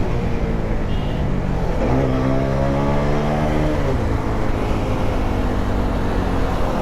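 Road riding noise, with a steady low rumble and wind on the microphone. About two seconds in, a pitched vehicle note swells up, holds for about two seconds, then drops away.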